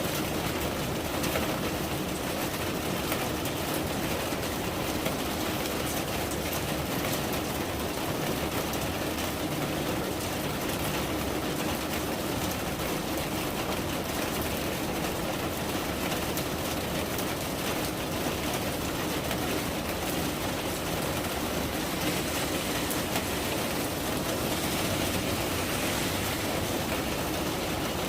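Steady rain falling, a dense even hiss of drops with fine patter throughout.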